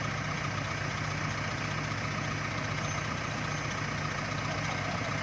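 Jeep Rubicon engine idling steadily while the Jeep sits stuck in deep mud, unable to drive forward.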